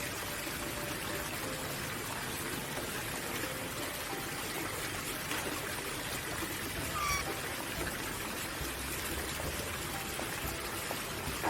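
Steady rushing of running water, like a stream, with a single short bird call about seven seconds in.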